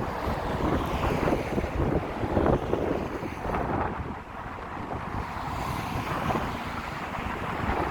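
Strong gusting wind buffeting the microphone, a heavy rumbling rush that swells and eases, strongest in the first few seconds and dropping back a little about halfway through.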